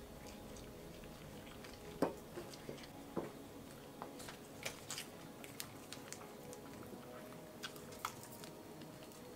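A person chewing and biting into a McDonald's sausage breakfast burrito: faint, irregular wet mouth sounds and small clicks, with a sharper one about two seconds in.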